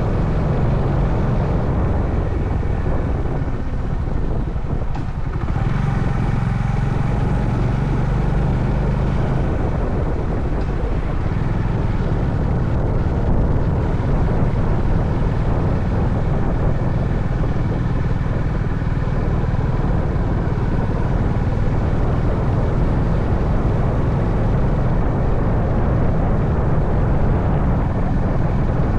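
Honda CB350 Highness's air-cooled single-cylinder engine running steadily on the move. The engine sound eases briefly about five seconds in, then picks up again.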